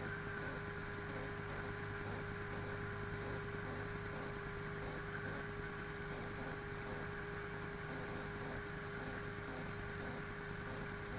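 Motorboat engine running steadily at an even speed with the boat under way, with a faint wash of wind and water.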